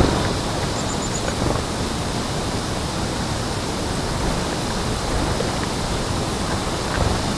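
Steady rushing outdoor background noise, with a quick run of four short, high bird chirps about a second in.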